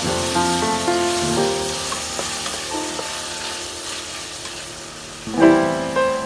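Diced onions and tomatoes sizzling as they sauté in a stainless steel pot, stirred with a spatula. Background piano music plays over it, thinning out in the middle and coming back louder about five seconds in.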